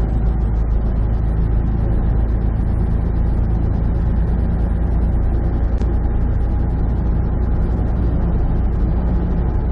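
Big truck's engine running steadily at highway cruise, heard from inside the cab, with a low drone and road noise that stay even throughout.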